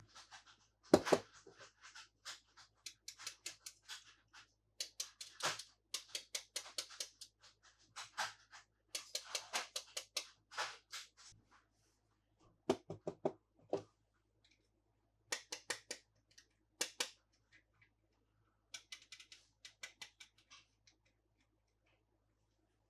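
Toy packaging being handled during an unboxing: bursts of rapid small clicks and crinkles, with short pauses between them and a sharp knock about a second in.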